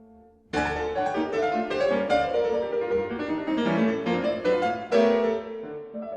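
Solo piano. A soft held chord gives way, about half a second in, to a loud, fast passage of quick notes, which eases to a softer level near the end.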